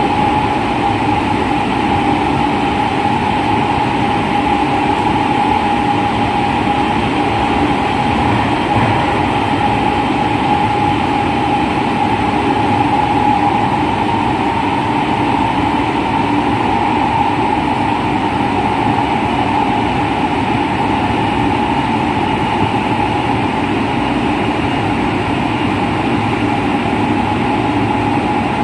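Running sound of a JR West 207 series electric train, set Z7, whose original traction motors are unchanged in pitch: a steady motor whine over wheel and rail noise, holding one pitch at a constant speed.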